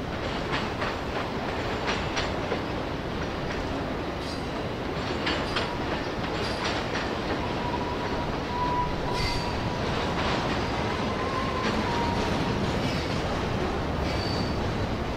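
Freight train of autorack cars rolling steadily past, wheels clicking over rail joints. A faint, thin wheel squeal comes in about six seconds in and fades out near twelve seconds.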